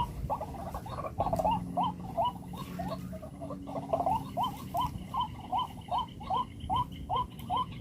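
White-breasted waterhen calling: a run of short hooked notes, jumbled and overlapping at first, then settling into an even series of about two to three notes a second.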